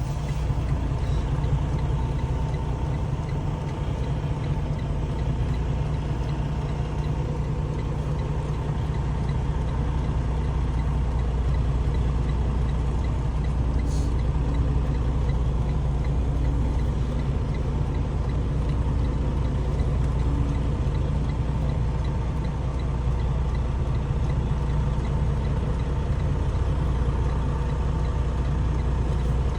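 Truck diesel engine running steadily at low revs during a slow reverse manoeuvre, with one short click about halfway through.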